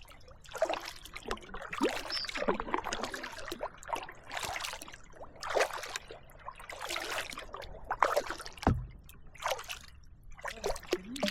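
Kayak paddle strokes on calm, glassy water: the blades dip in and lift out with splashes and drips, in an uneven rhythm of roughly one stroke a second. A dull knock about three-quarters of the way through.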